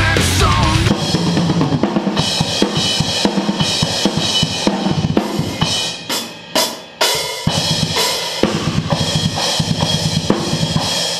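A rock drum kit playing a fast, busy beat on kick and snare. A fuller band mix drops out about a second in, leaving the drums mostly on their own, with a short break in the middle and the low end coming back near the end.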